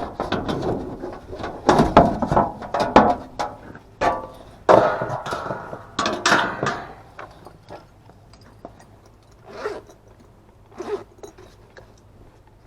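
Clattering, scraping and knocking of metal parts or tools being handled, dense for about the first seven seconds, then a few separate knocks.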